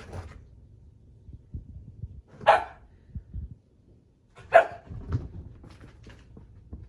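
A dog barking twice, about two seconds apart, between softer shuffling and knocks.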